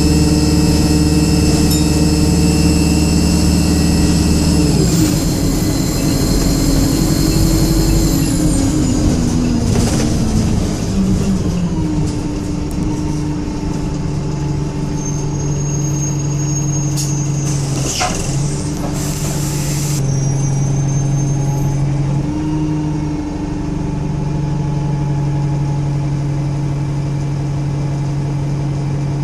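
Alexander Dennis Enviro200 single-deck bus running with a high whine, the pitch falling steadily from about five seconds in as the bus slows. A short hiss comes a little past halfway, and then the engine runs on at a steady lower note.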